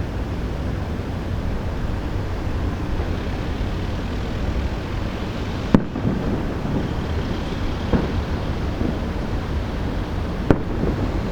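Distant aerial firework shells bursting: two sharp bangs, about six and ten and a half seconds in, with a fainter one between them, over steady wind noise on the microphone.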